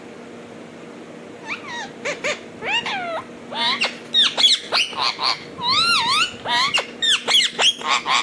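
Alexandrine parakeet vocalising: a fast run of short, high-pitched calls that swoop up and down in pitch, starting about a second and a half in.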